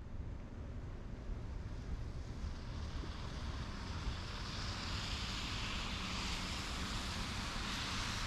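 Wind buffeting the microphone as a low, steady rumble, with a rushing hiss that builds from about three seconds in and cuts off abruptly at the end.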